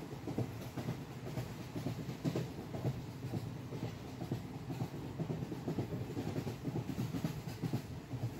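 A train rolling along the rails: a continuous rumble with irregular wheel clatter.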